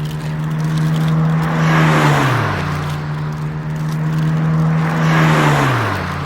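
A vehicle passes twice, about two seconds in and again near the end, each pass swelling into a hiss with its engine hum dropping in pitch as it goes by, over a steady hum.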